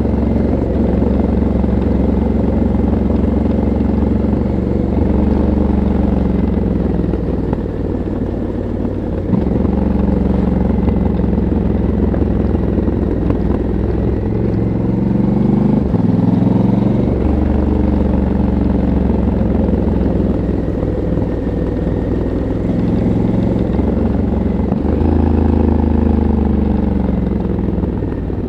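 Stock exhaust of a Honda CRF1100L Africa Twin's 1084 cc parallel-twin engine, heard onboard while riding. The revs rise and fall with the throttle, and the pitch drops and climbs again a few times.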